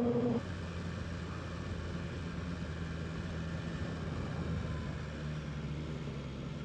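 BMW S1000RR inline-four engine: a higher steady tone cuts off sharply a moment in as the throttle closes, and the engine settles to a steady low idle.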